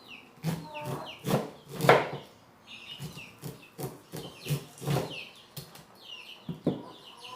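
Knife strokes cutting the kernels off ears of fresh corn, an irregular run of short scraping cuts up to about two a second, with chickens clucking in the background.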